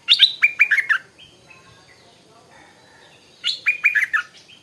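Stripe-throated bulbul singing two short phrases, each a quick run of clear whistled notes that fall in pitch, the second phrase starting about three seconds after the first.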